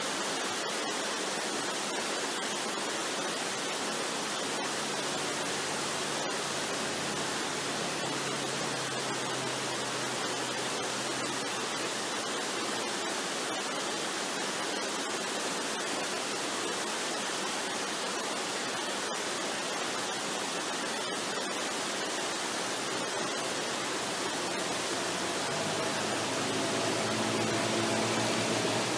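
Waterfall rushing steadily, an even wash of falling-water noise. Soft sustained musical tones come in underneath near the end.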